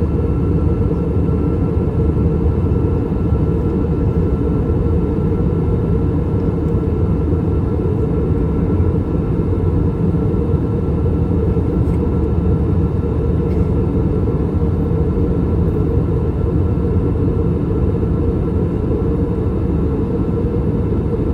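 Steady cabin noise inside an Airbus A321 airliner in flight: a loud, even, low rumble of airflow and its IAE V2533-A5 engines, with a faint steady whine above it.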